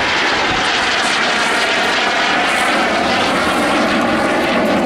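Jet Provost T1's Armstrong Siddeley Viper turbojet running steadily in flight, a loud, even jet noise with a faint high whine.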